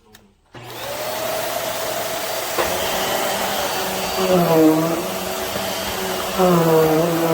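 Vacuum cleaner switched on about half a second in; its motor spins up quickly and then runs steadily with a hissing airflow. Its pitch dips and recovers twice as the load on the motor changes.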